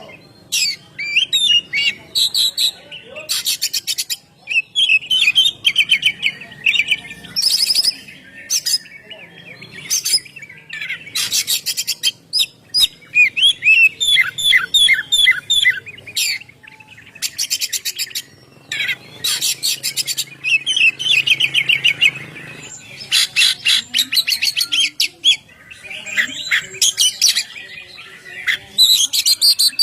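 Oriental magpie-robin (kacer) singing a long, varied song: spurts of quick repeated whistled notes alternating with harsh, scratchy phrases, broken by short pauses.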